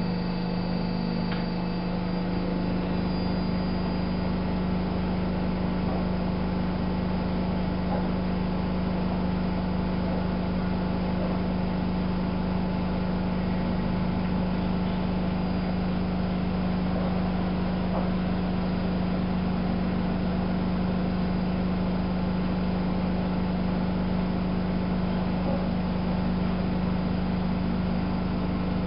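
Miele Novo Super W933 washing machine running: a steady mechanical hum with one strong low tone. The lower part of the hum shifts about two and a half seconds in.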